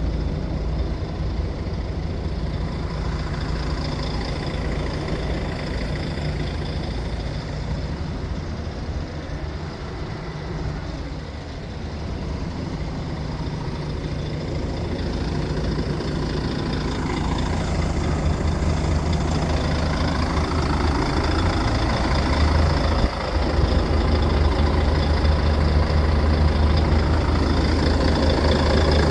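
Volvo FH12 truck's heavy six-cylinder diesel engine running steadily at idle, with a deep hum that grows louder about two-thirds of the way through.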